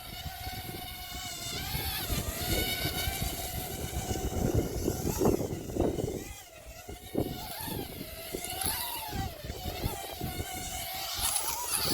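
Syma X21 mini quadcopter's propellers and motors buzzing in a high-pitched whine, the pitch wavering up and down with throttle. Gusts of wind rumble on the microphone underneath.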